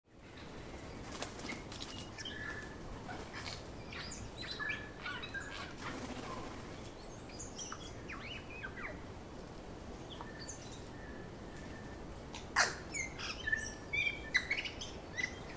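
Birds chirping and calling over steady background noise, with several louder, sharper calls clustered near the end.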